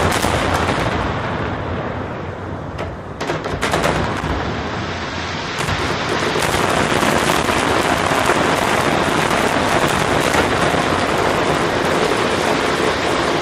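Aerial fireworks display: shells bursting with a sharp bang about three seconds in, then from about six seconds a dense, continuous crackling as many shells and ground effects go off at once.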